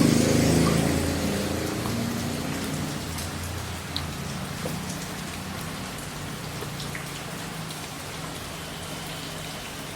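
Steady rain falling, with a few separate drops ticking on a surface. A low engine hum fades away over the first few seconds.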